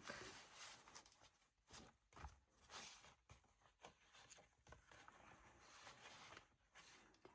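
Near silence with faint paper rustling and light taps: a small stapled scrap-paper notebook being handled and slid into a paper pocket of a journal.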